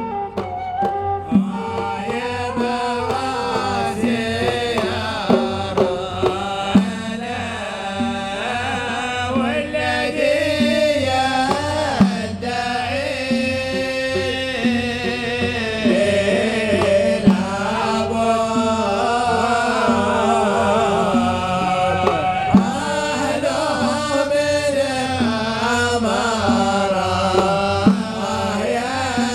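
Arabic chanted singing with hand-drum percussion keeping a steady beat.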